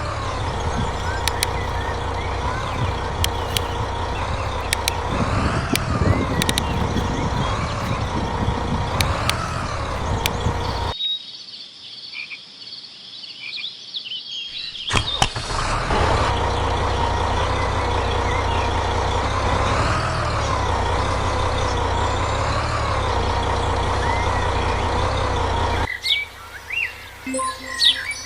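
A truck engine drones steadily with wavering higher tones over it. It drops out for a few seconds partway through, comes back, then stops near the end, giving way to birds chirping.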